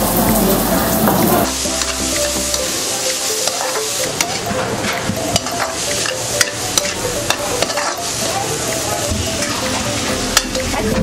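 Chicken pad krapao stir-frying in a hot pan: a steady sizzle of oil, with a utensil clicking and scraping against the pan many times as the food is tossed.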